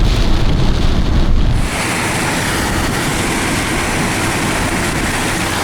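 Heavy rain and road spray hissing around a moving car, with a deep rumble that drops off suddenly about a second and a half in, leaving an even, bright hiss.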